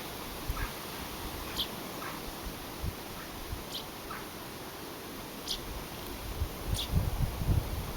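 Small birds calling: short, high chirps that sweep downward, one every second or two, with fainter lower calls between them. Low rumbles on the microphone in the last couple of seconds.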